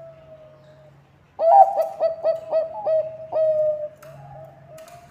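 Zebra dove (Bangkok perkutut) singing. About a second and a half in comes a loud run of about six short, clipped cooing notes, ending in one longer drawn-out note. Fainter cooing notes come before and after the run.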